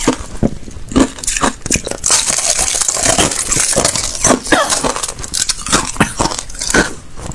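Thin ice being bitten and chewed: irregular sharp cracks and clinks, turning into a dense, continuous crunching from about two seconds in.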